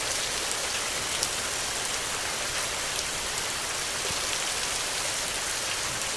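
Steady rain falling on a surface: an even hiss with scattered small drop ticks.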